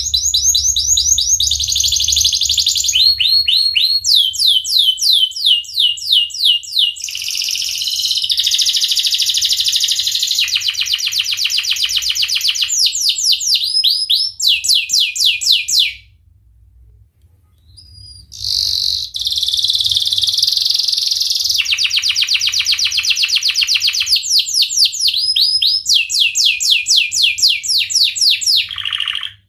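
Domestic canary singing two long song phrases made of fast repeated chirps and rolling trills that change pattern every second or two, with a pause of about two seconds in the middle.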